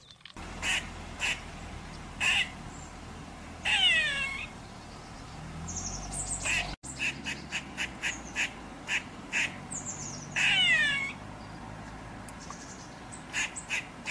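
Red squirrel calling: short sharp chirps repeated in irregular runs, with a longer call sliding down in pitch twice, about four seconds in and again near ten seconds.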